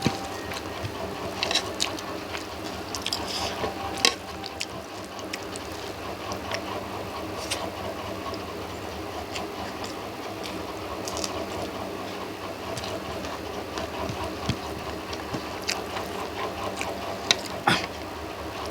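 Electric fan running steadily with a low hum, under scattered short clicks and smacks of someone eating by hand and chewing.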